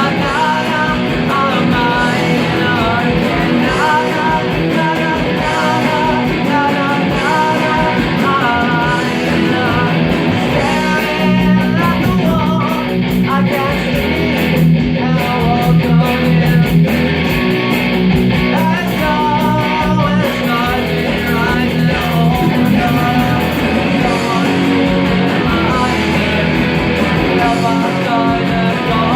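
Rock music led by guitar, played at a steady loudness.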